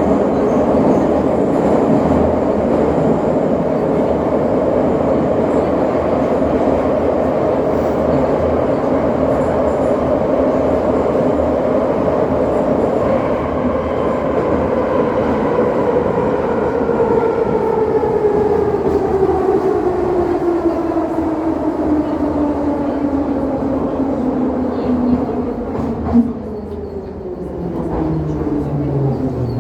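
Electric suburban train running, heard from on board, its motor whine falling steadily in pitch over the second half as the train slows. A short knock comes near the end, and the running noise drops away after it.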